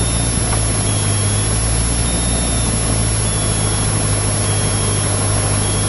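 Cessna 152's four-cylinder Lycoming engine and propeller running steadily at low taxi power, heard from inside the cabin as an even drone.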